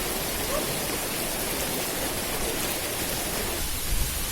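Steady rushing of flowing or falling water, an even hiss-like roar with no break.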